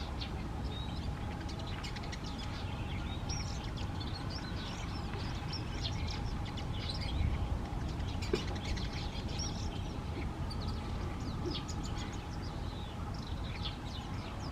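Small songbirds chirping and calling in many quick, short, high notes, over a steady low background rumble.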